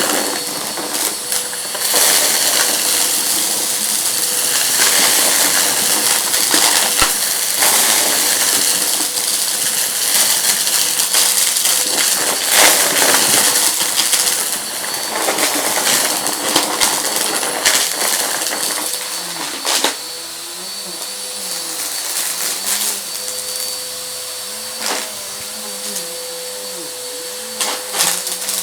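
Vacuum cleaner running over a rug and picking up crunchy debris, which clicks and crackles as it is sucked up. The motor hums steadily. The crackling is thickest for the first two-thirds and grows quieter near the end.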